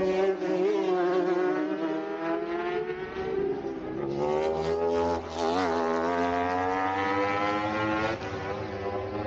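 Superbike racing motorcycle engines going through a chicane: one engine note waves up and down, then about four seconds in another bike's note comes in, wavers around five and a half seconds in, and rises steadily as it accelerates away.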